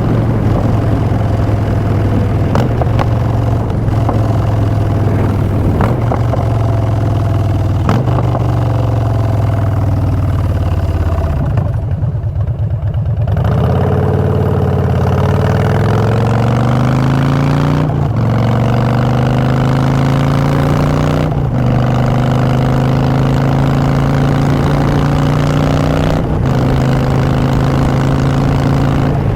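Harley-Davidson Street Bob's V-twin running through Vance & Hines Short Shots exhaust while riding: it cruises steadily, drops in pitch as it slows about ten seconds in, then accelerates again, with brief breaks for gear shifts about 18, 21 and 26 seconds in.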